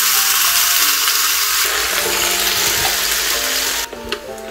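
Mandu dumplings frying in a closed electric waffle maker: a steady sizzle that cuts off suddenly near the end.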